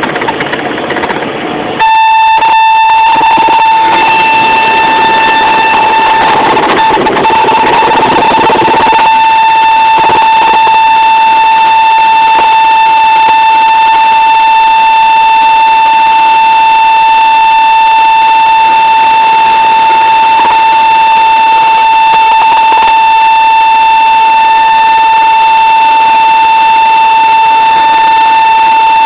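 Cessna 172 RG stall warning horn sounding as one continuous, steady high tone, starting about two seconds in over the cockpit noise. It is the sign of the aircraft flying at the edge of the stall in slow flight.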